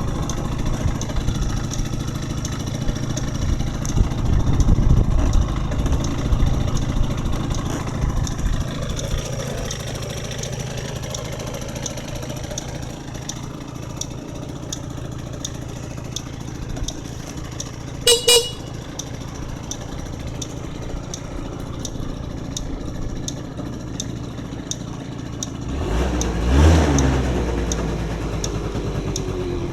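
Yamaha Vino 5AU two-stroke scooter engine running steadily, blipped up in revs around four seconds in and again near the end. Its horn beeps once, briefly, about midway.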